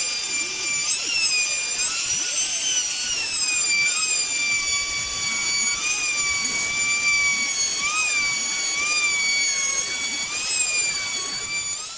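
Electric power saw motor whining at high speed, its pitch dipping briefly several times as the blade takes load cutting wood.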